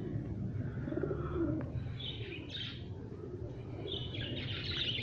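Pigeons cooing, with small birds chirping over them about two seconds in and again near the end.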